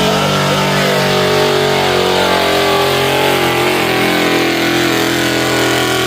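Pulling truck's engine held at full throttle under heavy load as it drags the weight-transfer sled, its pitch sagging slightly in the second half as the load builds.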